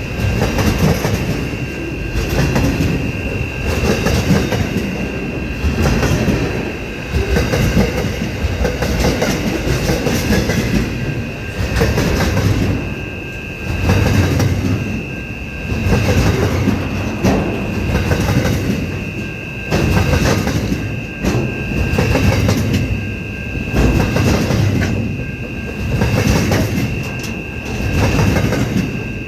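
Aurizon freight train's wagons rolling past, wheels clacking over the rail joints. The loudness swells about every two seconds as each wagon goes by, over a steady high-pitched whine.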